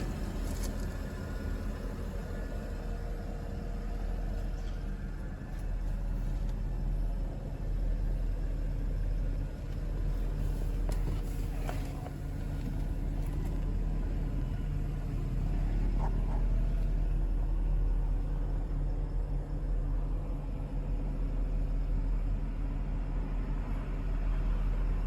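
2011 Porsche Panamera 4S's 4.8-litre V8 running with a steady low rumble, its pitch shifting slightly a few times.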